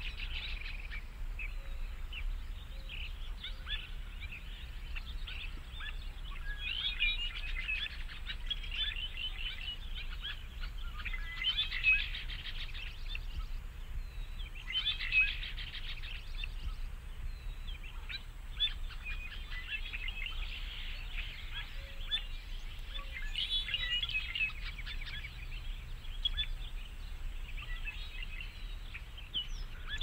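Songbirds chirping and trilling, a dense run of short high calls that swell and fade in clusters, over a low steady hum.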